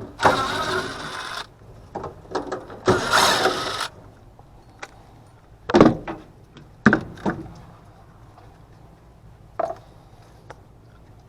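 Hands-on work noise while opening up an air handler to reach the evaporator coil: two rasping scrapes of about a second each, then a few scattered knocks and clicks.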